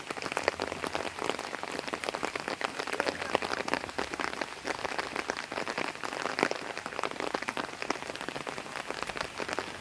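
Heavy rain falling steadily, a dense spray of sharp drop impacts on hard surfaces.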